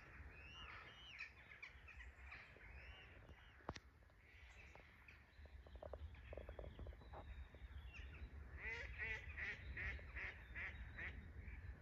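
Faint bird calls: scattered short calls in the first few seconds, then a quick run of about eight calls near the end, over a low steady rumble.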